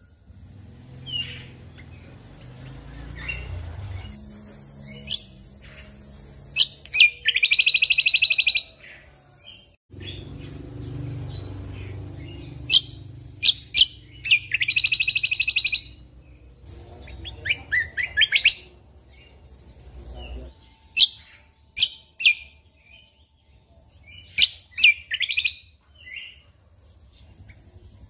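Cucak kombo (kecial kombok) songbird singing: sharp high chips and several rapid, buzzy trills about a second long, broken by short pauses. A faint low rumble lies under the song until about two-thirds of the way through.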